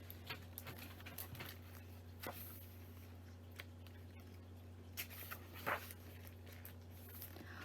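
Low steady hum with scattered faint taps and brief rustles, the most noticeable about two-thirds of the way through: quiet handling noise during a pause in the reading.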